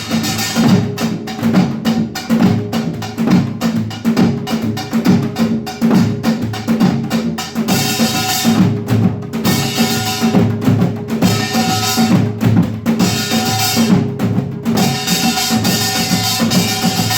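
Children's samulnori ensemble playing: kkwaenggwari small gong, jing large gong, janggu hourglass drum and buk barrel drum beating a fast, dense rhythm. The bright metallic clanging drops out briefly twice while the drums keep going.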